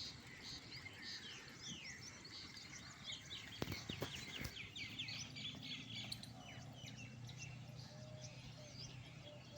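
Small birds chirping, many short quick calls overlapping. A few sharp knocks come about four seconds in, and a low steady hum starts about halfway through.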